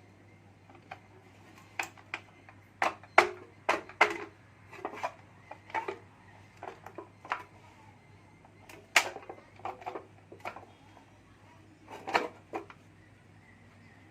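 Metal motorcycle engine parts and hand tools clinking and knocking as they are handled, in irregular clusters of sharp taps, with a faint steady low hum underneath.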